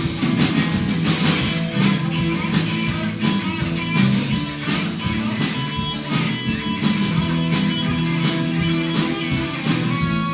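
Live country-rock band playing an instrumental stretch between vocal lines: electric guitar over bass and a drum kit keeping a steady beat.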